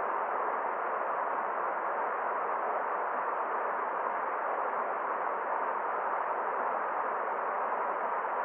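Forest stream: water flowing and rushing in a steady, even hiss, muffled, with no sharp high or deep low tones.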